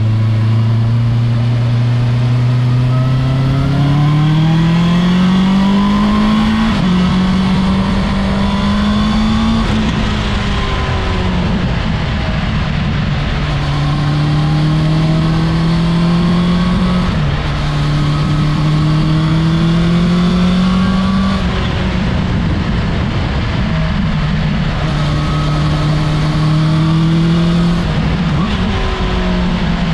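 Honda CB650R's inline-four engine under way, its exhaust note rising steadily through the first six seconds and then dropping abruptly. The note then climbs slowly and steps down sharply several more times, as with upshifts through the gears.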